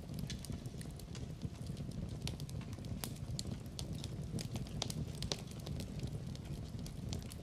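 Fireplace fire crackling, with scattered sharp snaps and pops over a steady low rumble of the flames.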